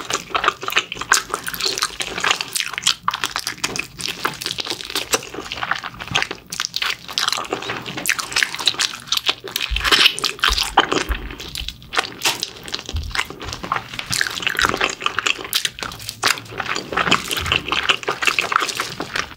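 Close-miked eating: wet chewing and lip-smacking on sauce-coated pig's trotters, a steady run of small sticky clicks and snaps.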